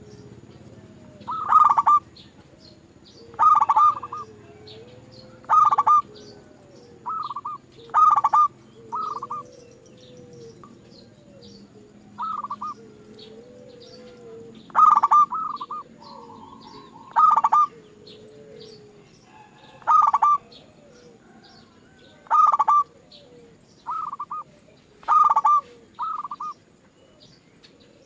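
Zebra doves (perkutut) calling: a short, rapidly stuttered call repeated about every two seconds, with softer gliding notes beneath it through the first two-thirds and faint high chirps in the background.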